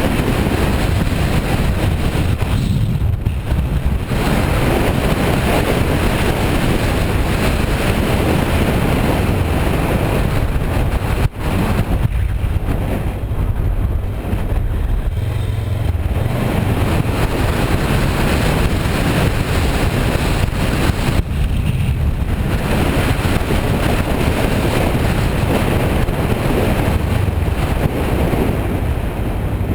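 Heavy wind noise buffeting the microphone of a moving 2008 Kawasaki Versys 650 motorcycle, with its parallel-twin engine running underneath. The noise swells and eases unevenly, with a brief dropout about eleven seconds in.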